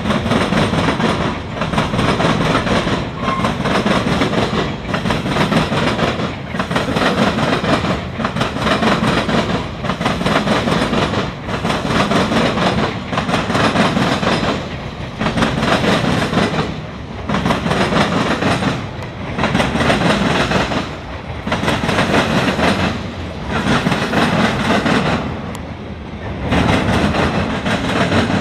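CSX local freight train rolling past, its wheels clacking over the rail joints. The noise swells and dips about every two seconds as each car goes by.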